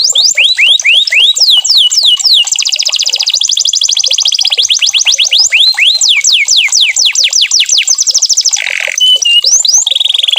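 Domestic canary singing a continuous song made of runs of quick repeated falling notes. The tempo shifts from slower swoops to a very fast trill and back, and a few short steady whistles and rasping notes come near the end.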